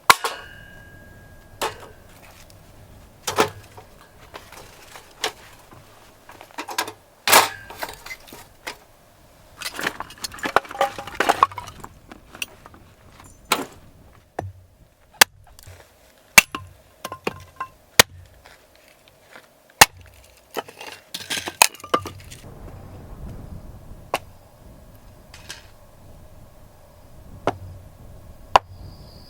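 Irregular knocks, clicks and clinks of small hard objects being handled, with a short ringing clink at the start and a busier run of knocks about ten seconds in.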